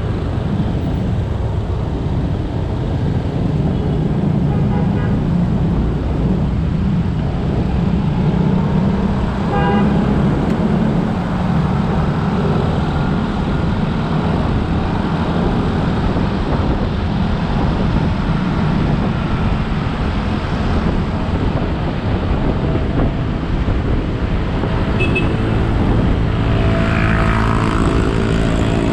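Motorbike engine running at road speed with road and wind noise, amid passing traffic. A short horn toot comes about ten seconds in, and another vehicle's engine draws close near the end.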